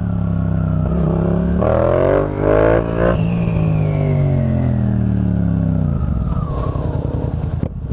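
Yamaha FZ-07's 689 cc crossplane parallel-twin through a Yoshimura aftermarket exhaust, ridden under load. It pulls harder and rises for about a second and a half, then the throttle is rolled off and the note falls in one long slide for about three seconds, settling lower near the end.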